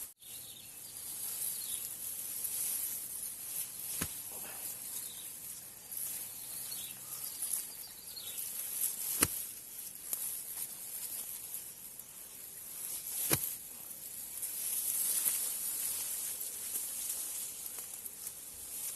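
High-pitched insect chorus, a steady hiss that swells and fades, with three sharp knocks about 4, 9 and 13 seconds in.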